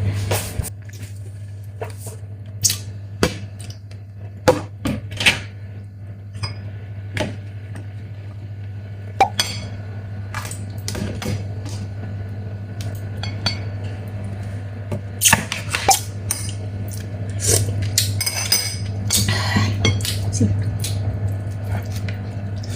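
A Chinese mitten crab being eaten by hand: irregular sharp cracks and clicks of the shell being broken and picked apart, with clinks against dishes, growing busier in the second half. A steady low hum runs underneath.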